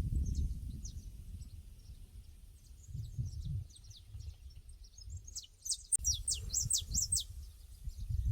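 Small birds chirping in a pasture: short, quick downward-sweeping chirps, with a busier, louder run of them a little past the middle. A low, uneven rumble sits underneath, and there is one sharp click about six seconds in.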